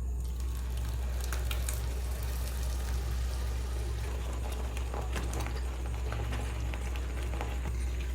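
Water bubbling at a boil in a pot, with scattered small pops and crackles over a steady low hum.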